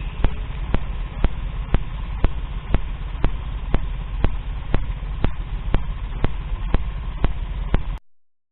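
Abnormal noise from a Samsung SGH-D720 mobile phone: a steady low buzz with sharp clicks repeating evenly about twice a second. It cuts off suddenly near the end.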